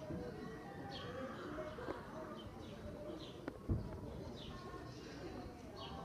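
Outdoor ambience: small birds chirping every second or so over faint distant voices, with one low thump a little after halfway.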